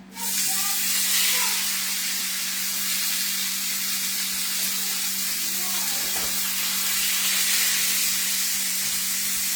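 Chuck roast searing in hot olive oil in a pan: a loud sizzle that starts abruptly as the meat goes in, then holds as a steady hiss.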